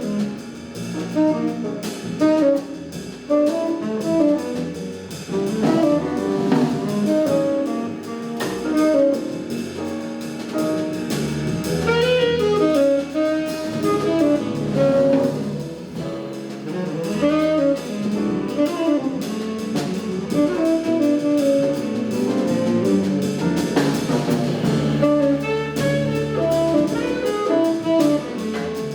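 Live jazz quartet playing: saxophone carrying a fast melodic line over piano, walking double bass and drum kit with cymbals.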